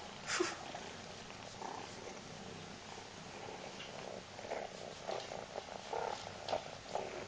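A cat purring, with a brief sharp noise near the start and a run of short soft noises in the second half.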